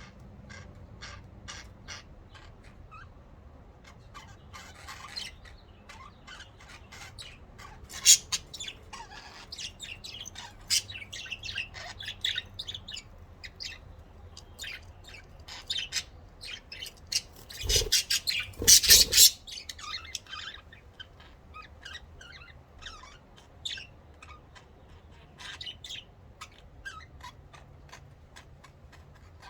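Pet budgerigars chirping and chattering in a rapid string of short calls, with a louder flurry of calls and a couple of thumps about two-thirds of the way through.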